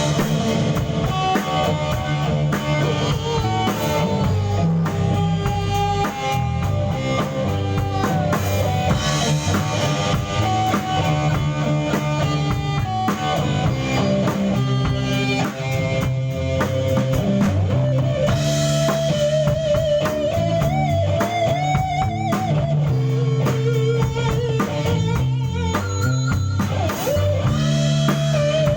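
Rock band playing live: drum kit, bass and electric guitars, with held melody notes that waver in pitch over the top. No singing comes through.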